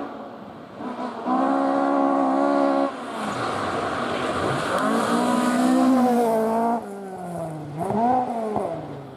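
Rally car engine running hard at high revs, its note cut off sharply about three seconds in and again about two-thirds of the way through, then falling in pitch with a short rev blip near the end.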